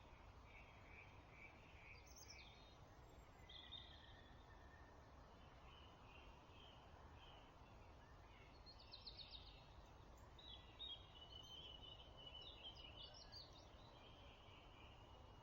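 Dawn chorus of songbirds singing faintly in short scattered phrases over a steady low background rumble, with a quick run of notes about nine seconds in and a longer spell of song from about ten to fourteen seconds.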